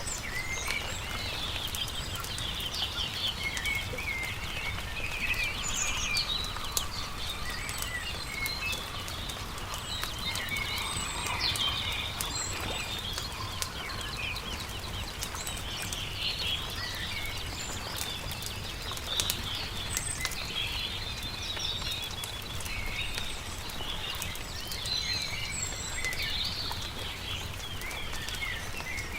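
Many small birds chirping and singing over a crackling wood campfire, with frequent sharp pops and a low steady rumble underneath.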